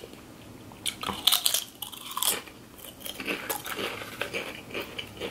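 Someone biting into and chewing a crisp snack chip close to the microphone: a cluster of sharp crunches about a second in, more at about two seconds, then a run of softer crunchy chewing.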